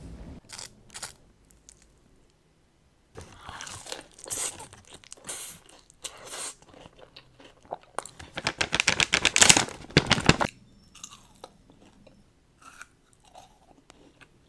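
Crunchy food bitten and chewed close to the microphone, in irregular bursts of crunching. The loudest, densest crunching comes from about eight to ten and a half seconds in, then dies down to a few faint crunches.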